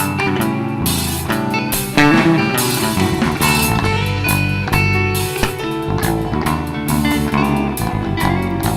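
Live band playing an instrumental passage: guitar over bass and drum kit, with no singing.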